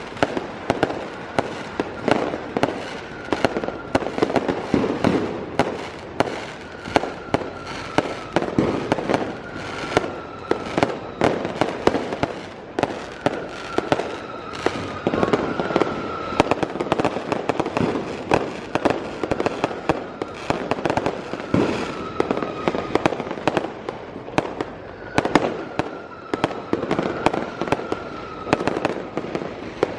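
Fireworks and firecrackers going off in a dense, continuous string of sharp bangs and pops. A faint, slightly falling whistle recurs about every six seconds.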